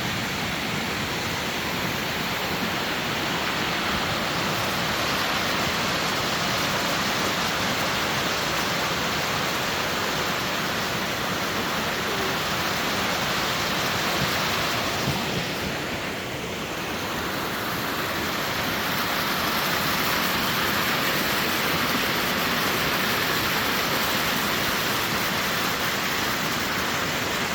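Waterfall's steady rush of falling water, dipping slightly about sixteen seconds in.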